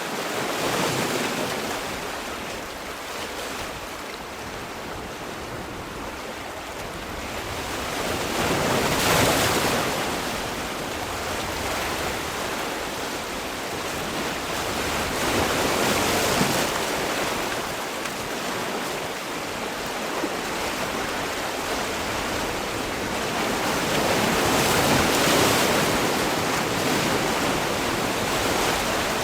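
Sea waves washing in, with a steady wash of surf and a louder swell as each wave comes in, four times about eight seconds apart.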